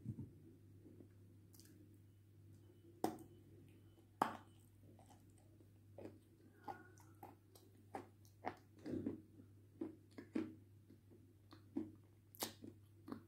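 Close-up mouth sounds of chewing a soft biscuit dipped in red cream, which does not crunch: scattered wet smacks and clicks, two sharper ones about 3 and 4 seconds in, then more frequent from about 6 seconds on, over a faint steady hum.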